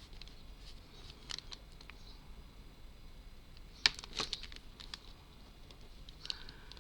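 Light clicks and taps of small wooden model pieces being handled, with a few taps about a second in and a louder cluster a little past the middle.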